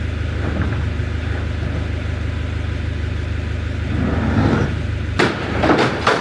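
Diesel engine of heavy demolition machinery running steadily with a low drone. A few sharp knocks or clatters come about five seconds in and again near the end.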